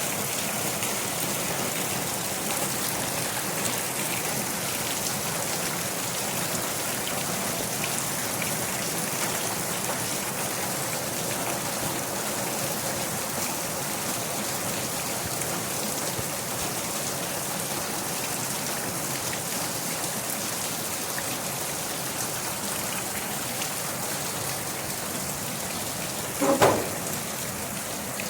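Steady rain falling and pattering on a surface. A single brief, louder thump or splash comes near the end.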